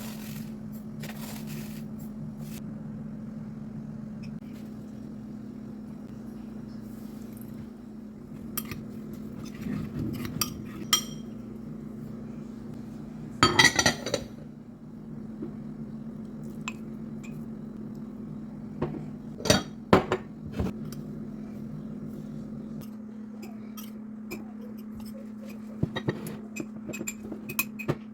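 Kitchenware being handled: a spoon clinking and scraping against a ceramic cup or dish in scattered sharp knocks, with a louder half-second burst of noise about halfway through, over a steady low hum.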